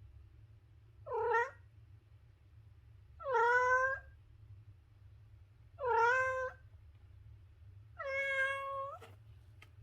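A cat meowing four times, about two seconds apart; the last meow is the longest and held at a steady pitch.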